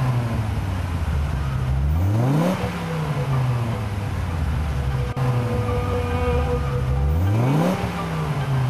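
Car engine revving: its pitch climbs steeply about two seconds in and again about seven seconds in, each time sliding back down to a steady run.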